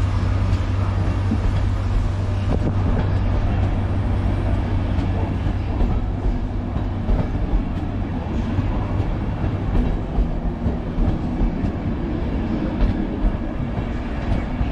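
A loco-hauled Mark III passenger train on the move, with a steady drone from the Class 67 diesel locomotive and the coaches' wheels rolling and clicking over the rails.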